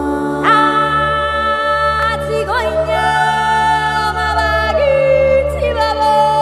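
Music: a voice sings long held notes that slide between pitches, over a steady low drone.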